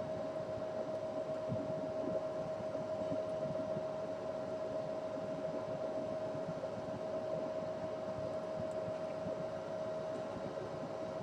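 A steady mechanical hum with one constant mid-pitched tone, unchanging throughout.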